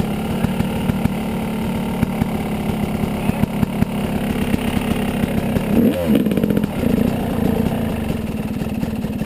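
Yamaha 250 dirt bike's engine running, with a rapid steady firing beat; about six seconds in the engine note drops and then climbs again.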